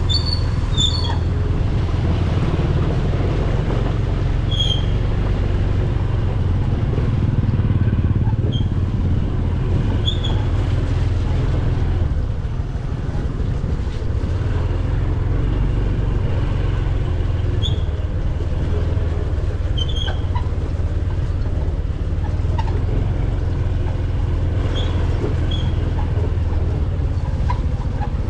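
A motor vehicle's engine running steadily, with a few short high chirps scattered over it.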